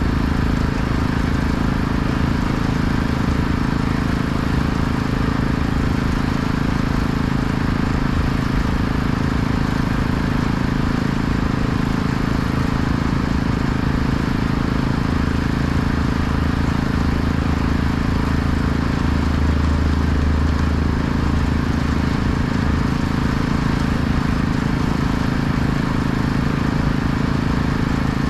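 An engine running steadily with a constant low drone, slightly fuller for a few seconds past the middle.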